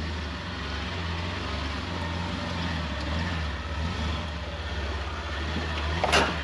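Jeep engine running low and steady as it crawls over rock, with one sharp knock about six seconds in.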